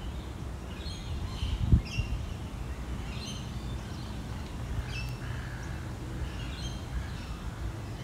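Birds chirping: short, high calls scattered through, over a steady low rumble. A single sharp thump just under two seconds in.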